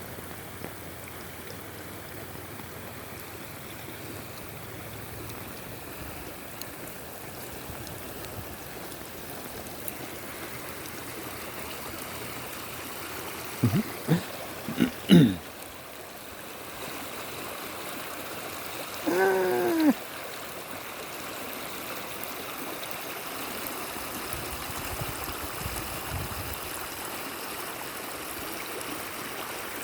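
Rainwater running steadily in a storm-swollen desert wash, an even rushing and trickling. A few brief pitched vocal sounds break in about halfway through and are the loudest moments.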